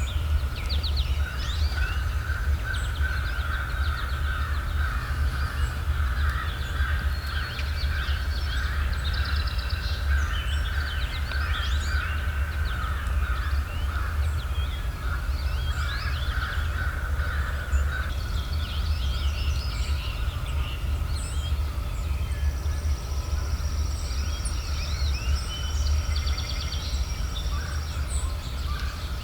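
Morning chorus of many songbirds chirping and trilling throughout, over a steady low rumble and a constant mid-pitched drone.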